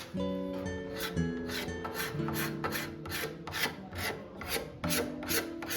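Hand abrasion of Indian mahogany: even scraping strokes on the wood, about two and a half a second, over background music with held notes.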